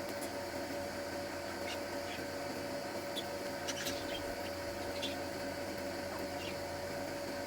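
Small pet birds giving short, high chirps at irregular intervals over a steady background hum.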